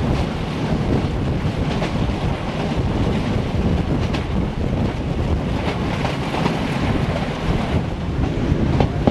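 Wind buffeting the microphone from the open door of a moving metre-gauge passenger train, over the steady rumble of the train running on the track, with a few faint clicks from the wheels.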